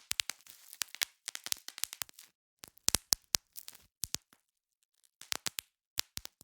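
Bubble wrap being popped: clusters of sharp pops, several in quick succession, with crinkling of the plastic between them, then a pause of about a second near the middle before the popping picks up again.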